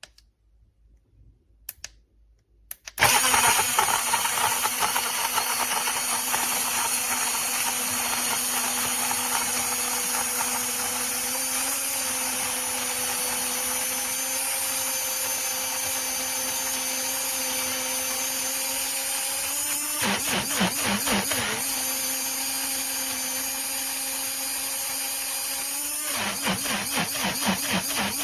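Battery-powered COKUNST portable mini blender (22000 RPM) starting after a few clicks about three seconds in, its motor then running steadily with a whine as it blends a protein shake of water and powder. The sound wavers and pulses twice, about twenty and twenty-six seconds in.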